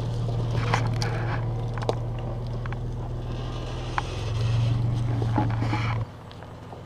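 Off-road SUV engine running close by, a steady low hum with a few knocks and rattles from the vehicle. It swells a little about four seconds in, then drops away abruptly about six seconds in.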